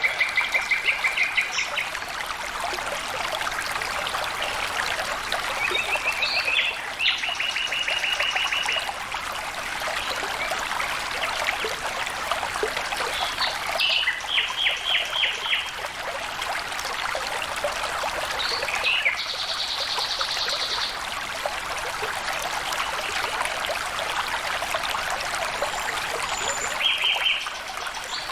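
Water flowing steadily in a stream. A bird gives short, rapid trilled calls about five times over it.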